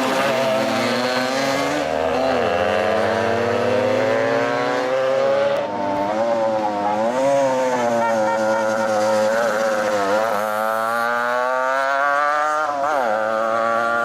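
Pre-1980 motorcycle engine running under changing throttle. Its pitch climbs steadily, drops sharply a few times and climbs again, as in riding through the gears.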